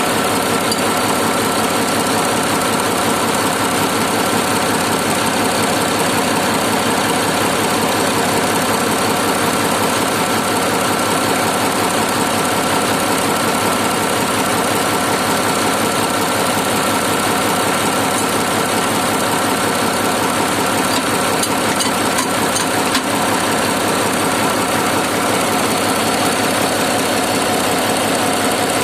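Komatsu D65 bulldozer's diesel engine running steadily with a fast, even pulse and a thin steady whine above it, run up just after the control valve's seals were replaced.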